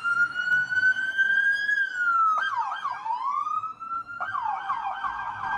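Electronic police siren: a slow rising wail that breaks into a quick warbling yelp about two and a half seconds in, then another rising wail and a fast yelp near the end.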